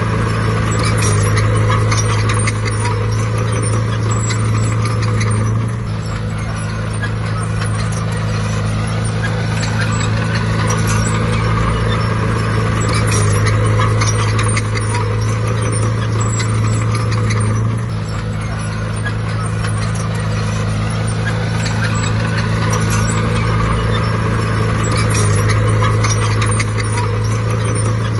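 Bulldozer's diesel engine working under load with a rattling clatter on top. The engine's pitch and level shift every several seconds as the load changes.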